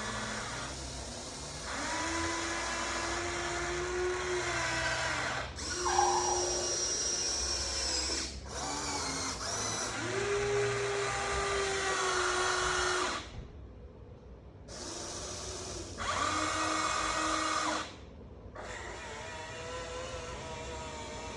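Huina 1593 RC excavator's small electric gear motors whining as its functions are worked in runs of a few seconds. The motors stop or drop off briefly several times, with a longer pause about 13 seconds in, and the pitch shifts each time the motors start up again.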